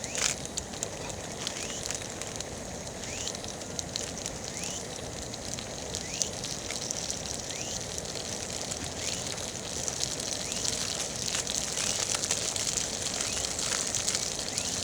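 Wood campfire crackling, with frequent sharp pops over a steady hiss that grows a little louder toward the end.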